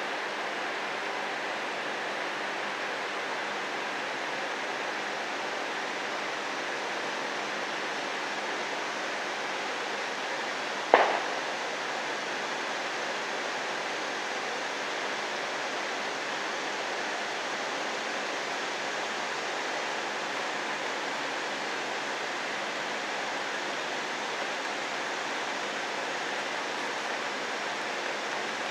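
Steady rain, an even hiss with no let-up, with one sharp knock about eleven seconds in.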